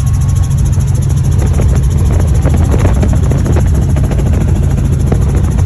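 Helicopter's rotor and engine running steadily, with a fast, even rotor flutter under a loud low rumble.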